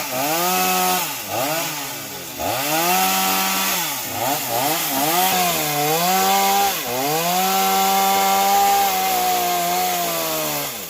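Chainsaw engine running hard while cutting through the trunk of a fallen tamarind tree. Its pitch dips again and again as the chain bogs down in the wood, then climbs back, and it holds steady near the end before stopping.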